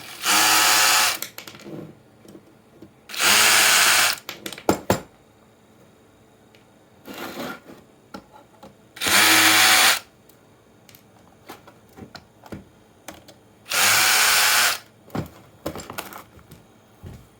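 Small electric drill-driver running in four short bursts of about a second each, spread several seconds apart, with small clicks and knocks of handling between them.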